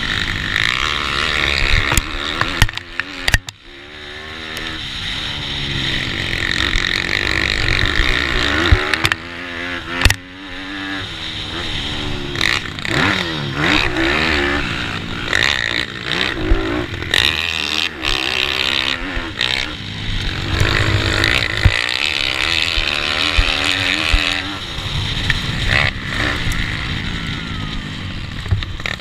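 Pitbike racing: a Bucci F15's GPcube Lite 160cc single-cylinder four-stroke engine revs hard, its pitch climbing and falling again and again through gear changes and corners, with wind rush over it. Other pitbikes' engines run close by, and the sound drops off sharply a few times when the throttle is shut.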